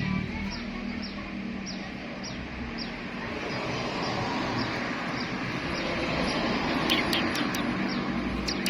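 Short, high, falling bird chirps, about two a second at first and then a quicker run of sharper chirps near the end, over a steady rumbling background noise like passing traffic.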